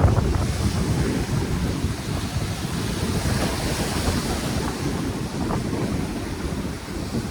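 Strong wind buffeting the microphone, with ocean surf washing in a steady hiss.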